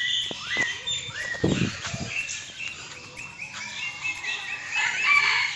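Several birds chirping together, short rising chirps repeating rapidly and overlapping.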